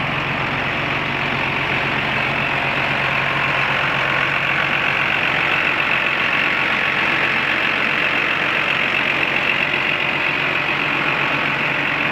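A 1997 John Deere 8300 tractor's six-cylinder diesel engine running steadily at idle.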